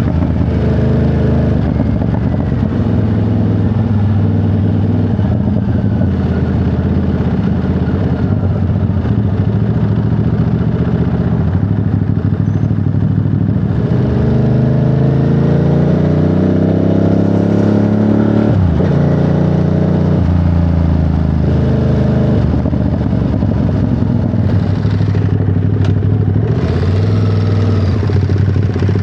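Ducati Monster 937's V-twin engine running on the move. Midway it revs up in a rising sweep, dips sharply at a gear change, pulls up again and then settles back to steady running.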